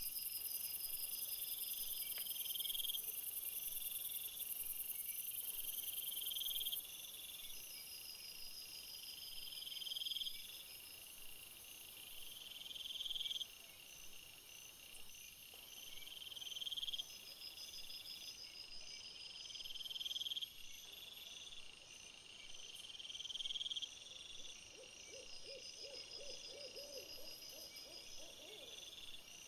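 Chorus of crickets and other singing insects: a continuous high trill, steady pulsed chirping, and a buzzy phrase that swells and stops every three to four seconds. A short, lower pulsed call sounds briefly near the end.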